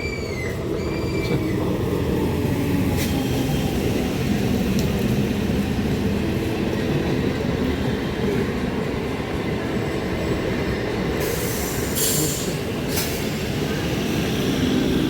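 Indian Railways train running past on the rails: a steady rumble of wheels and coaches with a few rattling clacks, growing louder over the first couple of seconds.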